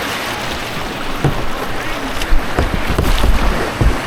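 Rushing white water around a kayak, heard through an action camera, with low buffeting on the microphone that grows in the second half.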